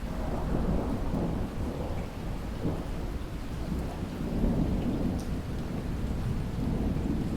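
Heavy rain with a long, low roll of thunder. The thunder swells as the sound begins and again about four and a half seconds in.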